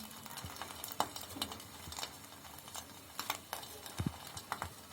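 Egg frying in oil in a pan: a steady faint sizzle with many scattered sharp clicks and crackles.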